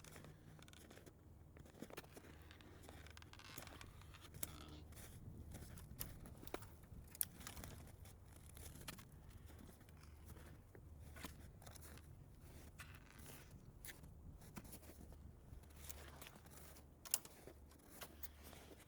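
Faint, irregular crunching and rustling of someone moving about in snow, with a few sharp clicks over a low steady rumble.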